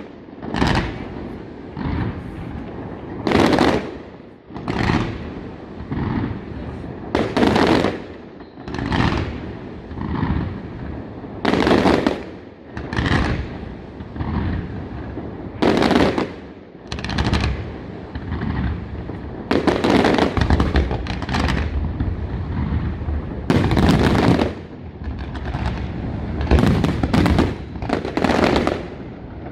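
Aerial fireworks bursting in a steady run of loud bangs, roughly one every second or two, each followed by a rumbling echo and crackle, and coming thicker towards the end.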